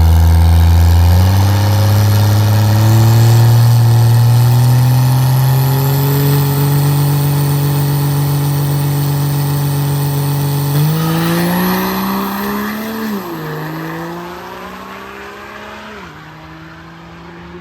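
Cummins diesel race truck engine at full throttle on nitrous during a drag-strip pass, its pitch climbing steadily. Then it drops sharply twice, about thirteen and sixteen seconds in, and the sound fades toward the end.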